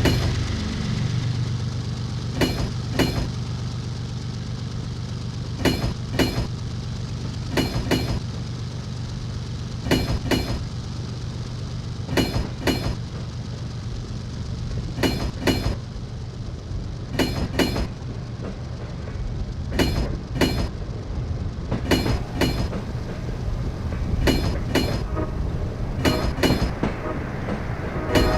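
Wheels of Russian-built passenger coaches clicking over a rail joint as the train pulls out slowly, in pairs of clicks half a second apart every two to three seconds, over a steady low rumble.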